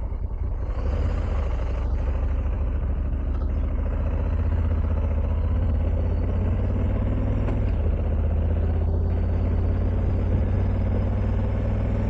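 Motorcycle engine running steadily under way, its note rising about a second in, with a steady rush of wind noise.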